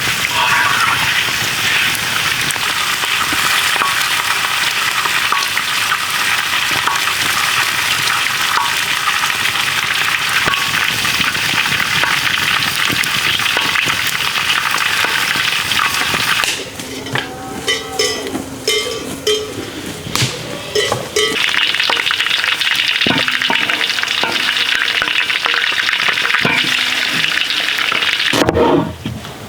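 Food sizzling in hot fat in a pan, with stirring. The sizzle drops away for a few seconds past the middle, when a few knocks and clinks are heard, then returns.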